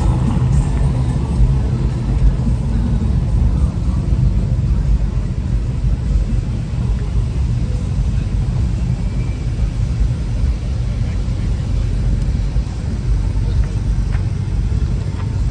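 A vehicle engine running with a low, steady rumble.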